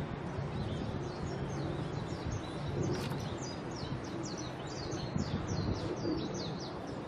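A bird chirping: a quick run of short, high, falling chirps, about three a second, starting about a second in and stopping just before the end. A single sharp click sounds midway, over a low steady hum.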